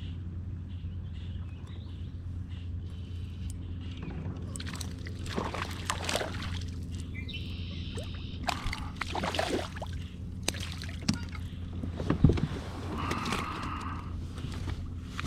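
Water sloshing and splashing around a kayak hull, in irregular bursts over a steady low hum, with a sharp knock about twelve seconds in.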